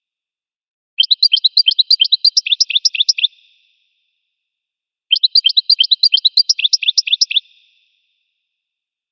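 Recorded finch song: a fast run of short, high chirping notes, about ten a second, lasting just over two seconds, then the same phrase played again after a silent gap.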